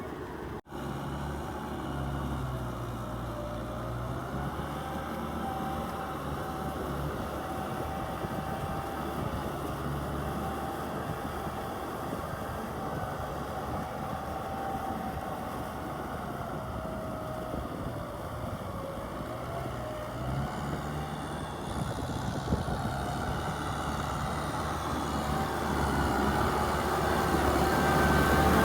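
Kubota tractor's diesel engine running steadily while plowing, its pitch wavering up and down a little. There is a momentary dropout just after the start, and the engine grows louder near the end.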